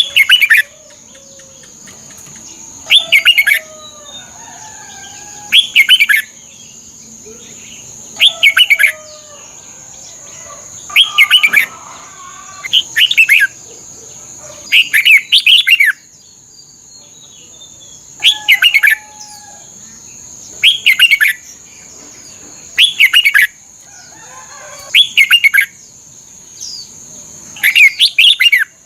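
Red-whiskered bulbul singing: short song phrases repeated about every two and a half seconds, over a faint steady high-pitched tone.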